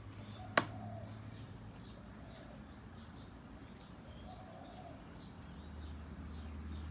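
Faint background birds: a soft low cooing call twice and a few faint chirps, over a low steady hum. One sharp click about half a second in.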